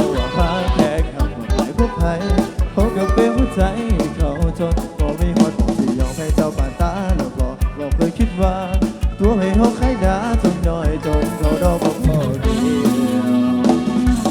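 Instrumental break of an Isan rot hae band playing through a truck-mounted sound system: a fast, steady kick-drum beat of about four beats a second under keyboard or guitar melody lines, with the beat dropping out near the end as a held low note takes over.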